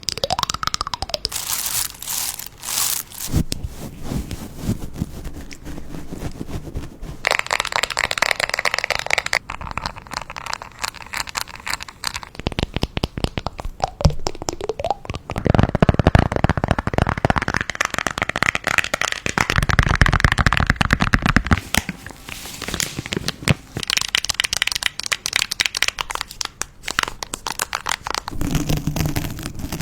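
Close-miked crinkling, cracking and tearing of packaging, a dense run of fine clicks that grows louder and softer in stretches.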